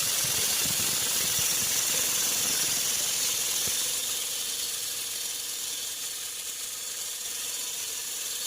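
AEG Electrolux T8DBG842 tumble dryer running, its motor giving a steady hissing noise with a faint steady whine and some light knocks in the first few seconds: the motor noise the dryer is faulty for.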